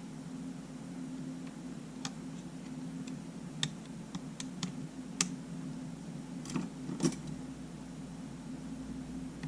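Scattered light clicks and taps from small camera parts and hand tools being handled during disassembly, about seven in the middle of the stretch, over a steady low hum.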